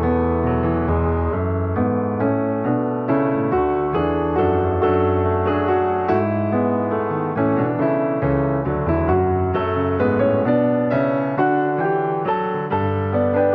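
Background music played on a piano, a continuous run of struck notes.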